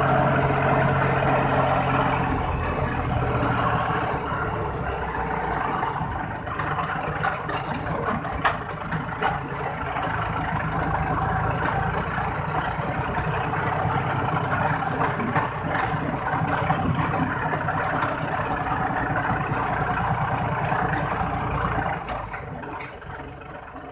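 Iseki 40 hp tractor's diesel engine running steadily through an aftermarket 'fuel-saving' exhaust pipe, heard from the driver's seat. The engine note eases a little after a few seconds and fades away near the end.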